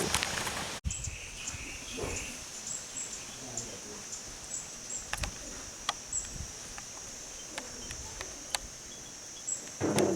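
A rain-like hiss cuts off suddenly under a second in, leaving a steady high-pitched insect drone with short high chirps repeating over it and a few sharp clicks; a voice is heard briefly near the end.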